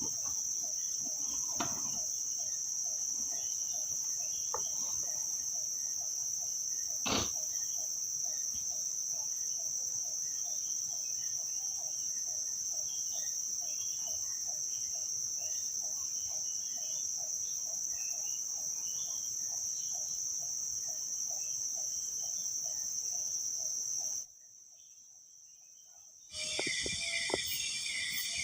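Forest insects droning in a steady, high-pitched chorus, with a lower pulsing call repeating about two to three times a second and a single sharp knock several seconds in. The chorus cuts out near the end, and a different, louder buzzing chorus starts shortly after.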